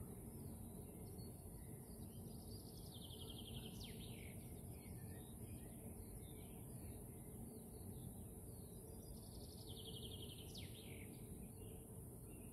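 A songbird sings the same short phrase twice, a few seconds apart: a buzzy trill ending in a quick sweep in pitch, over a steady low hum.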